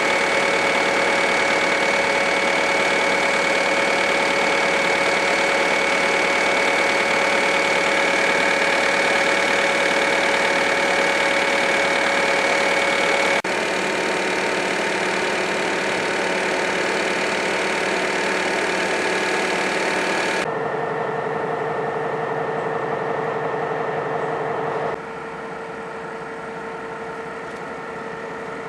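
GE U23B locomotive's 12-cylinder FDL diesel engine running steadily, a hum with several steady tones. The sound changes abruptly three times, getting quieter after each change.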